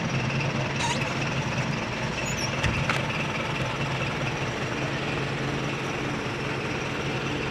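Mitsubishi Fuso Canter's 4D32 four-cylinder diesel engine idling steadily, with no clutch noise now that the clutch hydrovac has been replaced.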